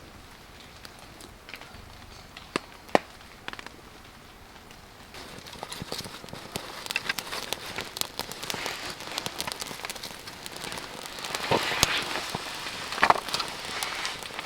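Wood campfire crackling and popping, with rain pattering on a tarp. At first the pops are scattered, two of them sharp; from about five seconds in the crackling grows dense and busier.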